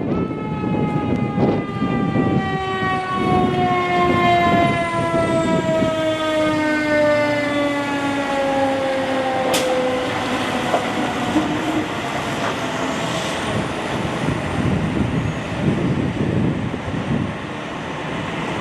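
Fire apparatus siren winding down, a rich steady wail whose pitch falls slowly over about ten seconds until it fades out, over the low rumble of strong wind on the microphone.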